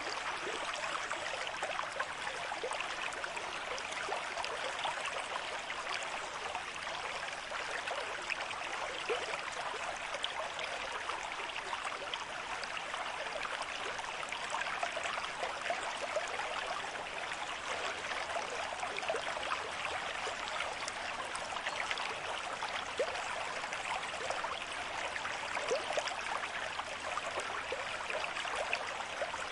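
Stream of moderate flow running over stones, a steady babbling and gurgling of water.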